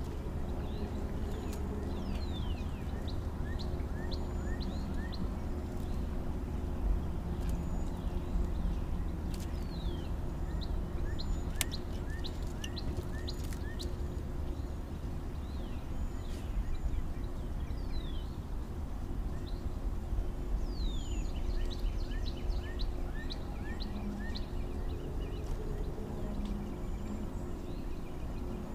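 Songbirds chirping in quick runs of short notes and brief falling whistles, over a steady low rumble, with a few sharp clicks near the middle.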